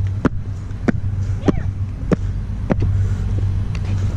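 Footsteps of someone walking at a steady pace, about one every 0.6 seconds, over a steady low hum.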